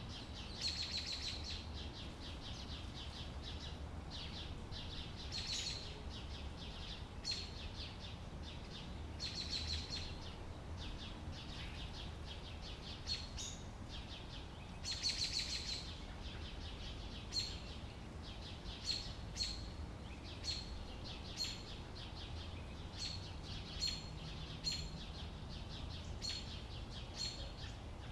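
Outdoor summer ambience of small birds chirping, with a few longer trilled phrases and, in the second half, a short chirp repeated about once a second. A steady low rumble runs underneath.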